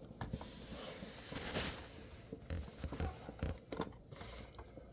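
Light, irregular clicks and rustling from small plastic building-brick pieces being handled and fitted on a model.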